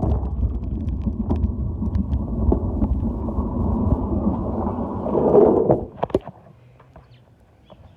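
A loud, low rumbling noise that swells slightly and then stops abruptly about six seconds in.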